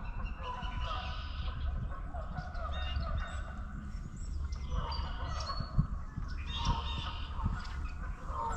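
Birds calling over and over, many short calls overlapping, over a steady low rumble.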